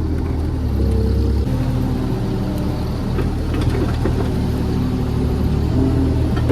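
JCB JS30 Plus mini excavator's diesel engine running steadily while the machine works, its note dropping about a second and a half in, with a few faint knocks.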